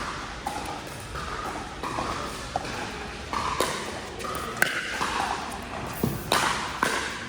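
Pickleball paddles striking the hard plastic ball in a rally, several sharp hits coming mostly in the second half.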